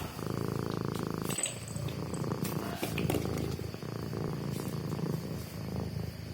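Domestic cat purring steadily, with a few light clicks and rustles over it.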